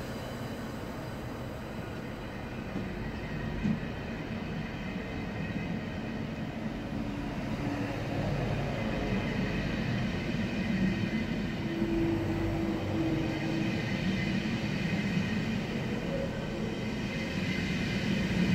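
ICE high-speed electric train rolling past along the platform, gathering speed, its rumble and running noise slowly growing louder.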